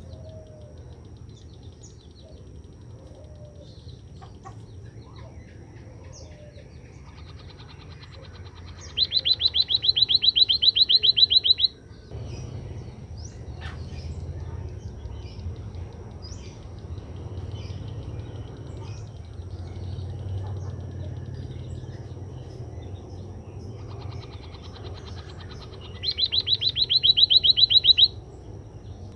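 White-headed munia (emprit kaji) singing: two fast trills of rapidly repeated high notes, each about three seconds long and growing louder toward its end. The first comes about a third of the way in and the second near the end, over a low background rumble.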